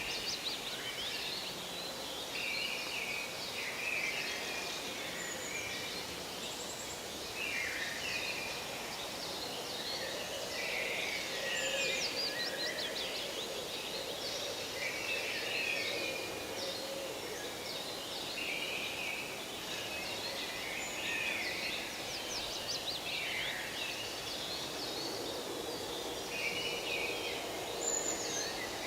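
Forest ambience: many birds calling and singing over a steady background hiss.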